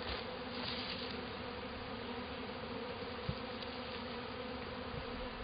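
Many honeybees buzzing around an opened hive, a steady hum.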